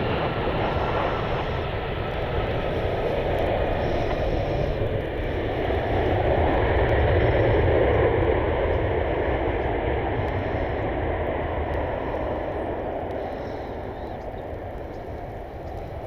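Jet airliner's engines passing, swelling to a peak about halfway through and fading away toward the end.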